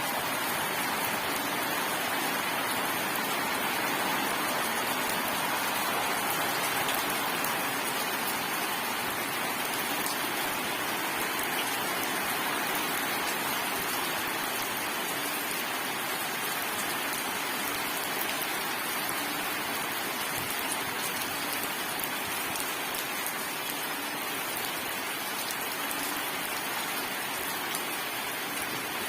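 Steady, heavy rain falling on surfaces, an even hiss of countless drops without thunder.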